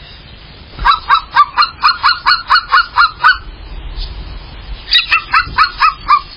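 A large bird honking in two quick runs of short calls, each call dropping a little in pitch, about five a second, with a pause of over a second between the runs.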